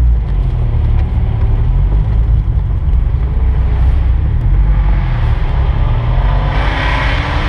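Car engine rumbling steadily at low speed, heard from inside the cabin. Near the end the engine note rises and grows louder as the car picks up speed.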